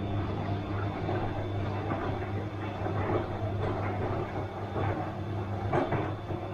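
Bosch washing machine running: a steady low motor hum under a rumbling wash noise, with a few soft irregular knocks, the clearest near the end.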